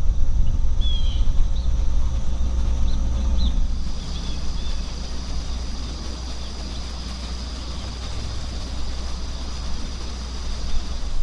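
Outdoor ambience by a pond: a steady low rumble, heaviest in the first few seconds, with a few short bird chirps early and a steady high-pitched insect hum that comes in about four seconds in and runs on.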